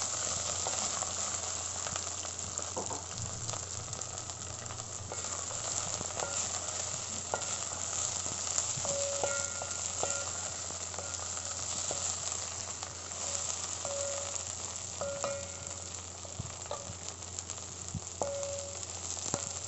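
Chopped okra frying in a little oil in a steel pot, sizzling steadily, stirred with a wooden spatula that knocks and scrapes against the pot now and then.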